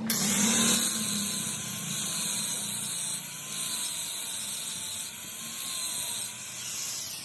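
A machine starts running suddenly and keeps going with a steady high hiss, a low hum and a faint whine that wavers slightly in pitch.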